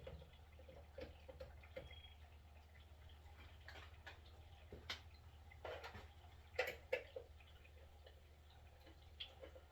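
Faint, scattered clicks and light taps of hand tools against metal while working on the electric water heater's wiring cover, over a low steady hum.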